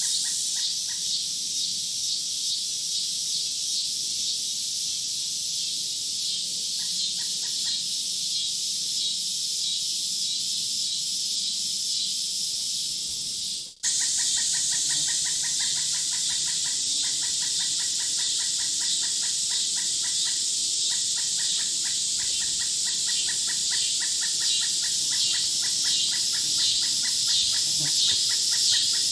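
Dense, steady high-pitched chorus of insects, with an even, fast chirping over it. The sound briefly cuts out about halfway through, and the chirping comes back stronger afterwards.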